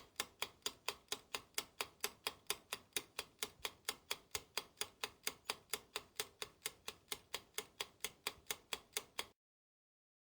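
Ticking clock sound effect: an even run of sharp ticks, about four or five a second, that cuts off suddenly near the end.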